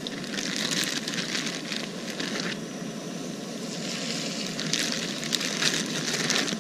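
Pieces of catfish frying in a skillet of hot oil, a steady sizzle with louder crackling that comes and goes as more pieces are added to the pan.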